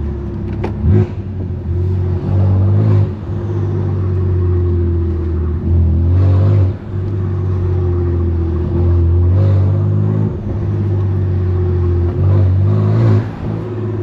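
BMW S55 twin-turbo inline-six in an M3 Competition with a straight-piped, single mid-pipe exhaust, running with a loud, deep drone while driving. The drone dips and comes back several times, about a second in, near the middle and near the end.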